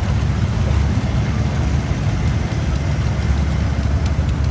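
A heavy engine running steadily at a constant speed, with a deep, even drone.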